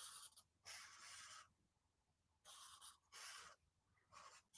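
Faint strokes of a pen drawing on paper, about five short scratchy strokes, each under a second long.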